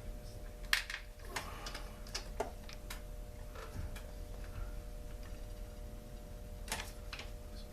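Irregular clicks and clinks of hand tools and small parts against a Poulan Pro chainsaw's casing as it is taken apart, over a steady low hum.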